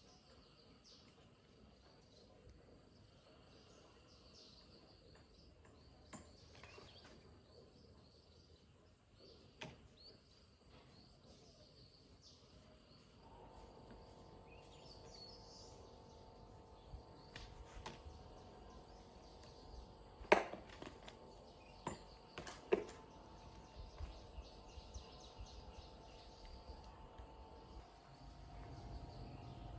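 Faint outdoor background with insects and birds. Partway through, a faint steady hum joins in, and a few sharp knocks or taps sound, two of them standing out.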